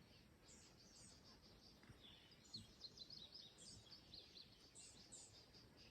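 Near silence, with faint, rapid, high-pitched bird chirping and a couple of soft knocks about halfway through.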